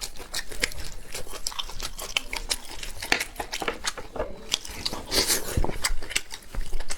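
Close-miked mouth sounds of a person biting and chewing chewy food, a dense run of irregular smacks and clicks.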